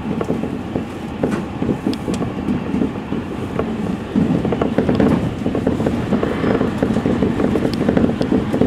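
Electric commuter train running at speed, heard from inside the driver's cab: a steady rumble of wheels on rail with scattered clicks as the wheels cross rail joints. It gets louder about four seconds in.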